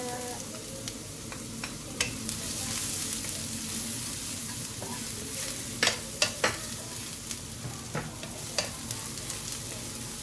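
Julienned ginger sizzling in hot oil in a nonstick wok, stirred with a wooden spatula. The spatula clicks against the pan a few times, most of them in a cluster about six seconds in.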